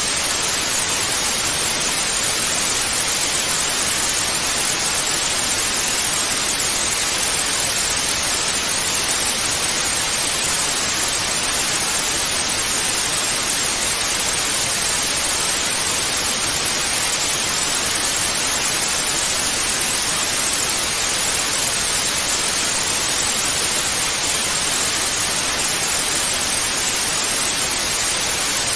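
Television static hiss: a steady, unchanging rush of noise, brightest in the upper range.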